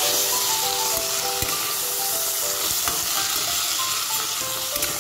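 Flat beans frying in hot mustard oil in a kadai, sizzling steadily as they are stirred with a spatula, with a few light ticks of the spatula against the pan.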